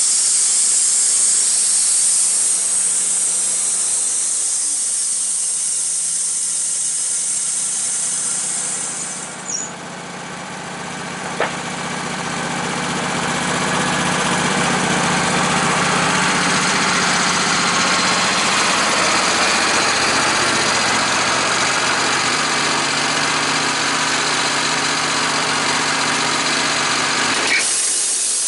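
A machine running loudly and steadily with a strong hiss over an engine hum. It dips briefly about a third of the way in, then builds back up and holds.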